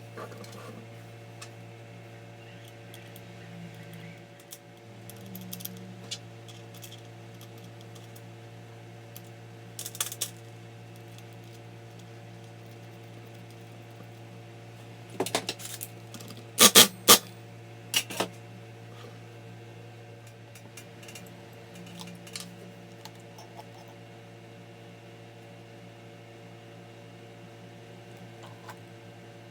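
Metal parts and tools clinking and knocking on a work surface: a few light clicks, then a cluster of loud, sharp clinks a little past the middle, over a steady low hum.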